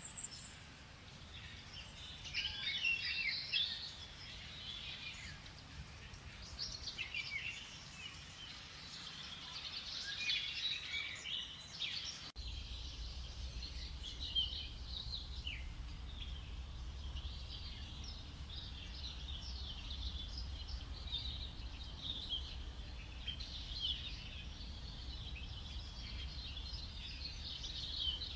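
Rainforest ambience of birds chirping and calling in scattered bursts. About twelve seconds in, it switches abruptly to a denser, steadier chorus of chirps over a low rumble.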